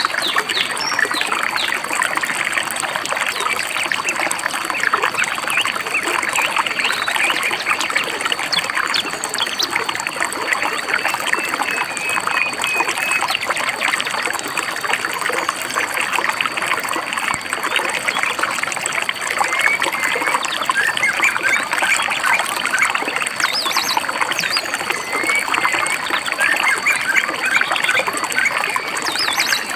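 A river babbling and trickling steadily, with birds chirping briefly now and then, including a short run of quick chirps about halfway through.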